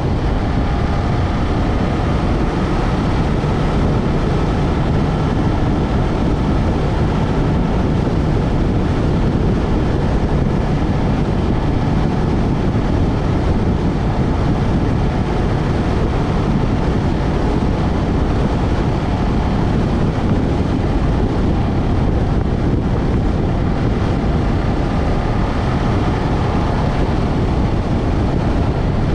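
Yamaha MT-03 parallel-twin engine running at steady cruising revs while riding, with heavy wind rush on the camera microphone. The engine pitch drifts gently up and down.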